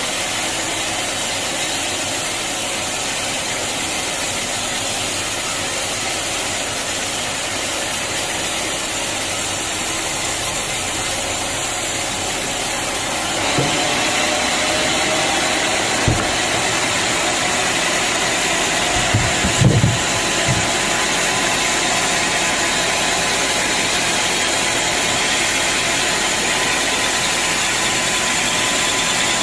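Sawmill machinery running steadily. It gets louder about halfway through, and a few short knocks follow a few seconds later.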